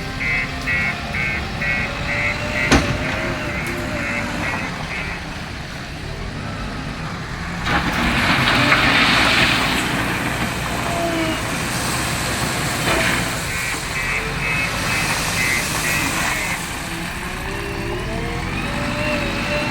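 Diesel engine of a JCB 3DX backhoe loader running steadily while loading a truck. A reversing alarm beeps in a regular series at the start and again later. A hiss of about two seconds comes in the middle.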